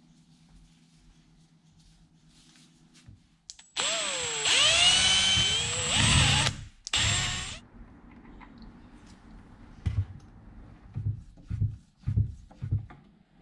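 Power drill running in two bursts, a run of about three seconds and then a short one under a second, its whine bending in pitch; then about five light knocks.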